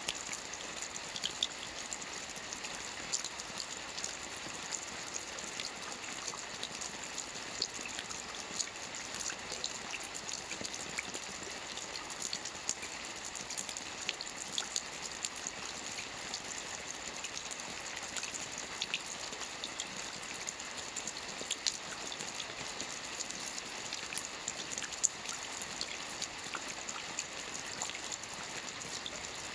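Soft rain falling steadily on a roof: an even hiss dotted with many small drop ticks.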